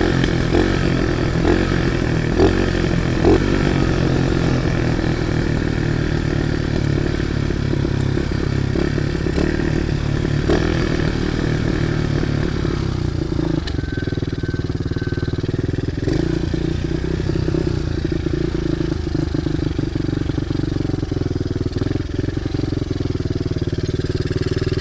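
Small single-cylinder pit bike engine running while ridden, with a few knocks and rattles in the first few seconds. About halfway through the engine note settles into a steady, even drone, the engine holding its revs on its own, which the rider blames on the bike revving up by itself and being slow to idle down.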